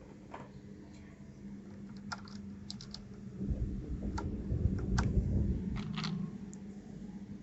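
Mechanical keyboard keys and keycaps clicking irregularly as they are pressed and handled, with a low rumble of handling in the middle.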